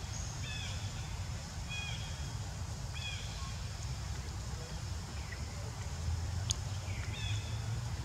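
A bird chirping, short falling notes repeated about once a second, over a steady low rumble, with one sharp click about six and a half seconds in.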